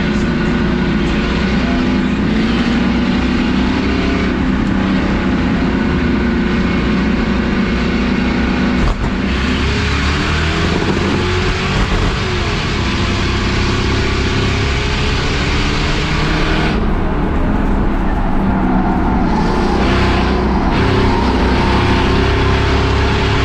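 Crown Victoria race cars' V8 engines running, the pitch rising and falling as the throttle changes.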